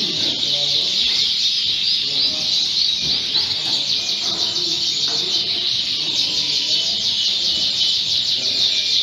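A chorus of many Fife canaries singing and chirping at once: a dense, continuous tangle of high trills and chirps with no break.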